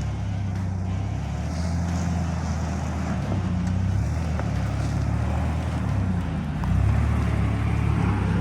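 Nissan Patrol GU's TB48 4.8-litre straight-six petrol engine running at low, steady revs as the 4WD crawls along a dry dirt track, getting louder near the end as more throttle is given.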